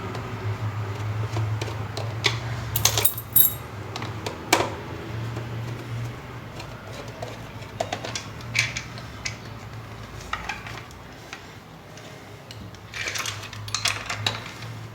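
Screws and small metal and plastic parts of a stand fan clinking and knocking as it is unscrewed and taken apart, over a steady low hum.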